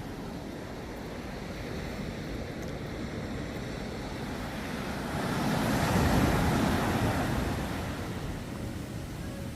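Waves breaking on a sandy beach: a steady wash of surf, with one wave building and crashing loudest about six seconds in, then falling away.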